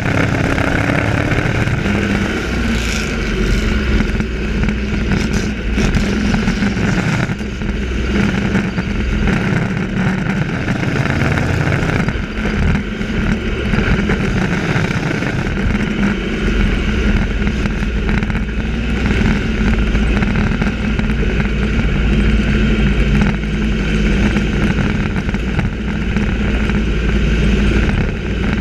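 Engines of a field of race trucks running at racing speed around a short oval track: a loud, continuous engine noise.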